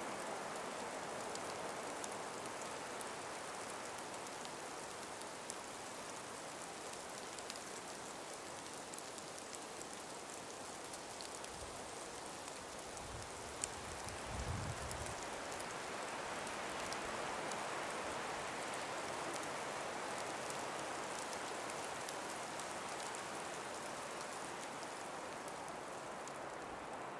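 A calm breeze blowing steadily through an ice- and snow-laden forest, a soft even rush with scattered faint ticks. A brief low rumble comes about halfway through.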